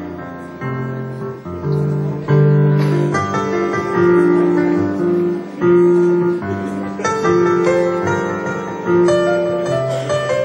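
Piano music: slow chords and melody notes, a new chord struck about every second.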